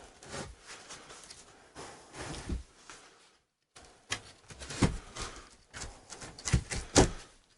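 Irregular knocks and thumps of particle board subfloor panels being knocked and pushed into place, with a few louder thumps in the second half.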